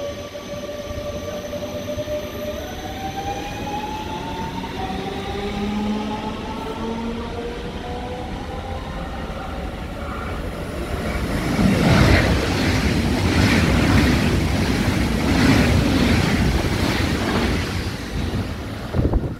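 Electric train moving through a station. For the first half there is a whine of several tones gliding up and down in pitch. From about eleven seconds in it grows louder, with a rhythmic clatter of wheels over rail joints, roughly one knock a second.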